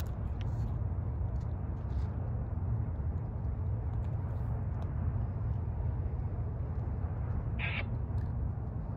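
Steady low outdoor rumble, with a single short bird call about three-quarters of the way in.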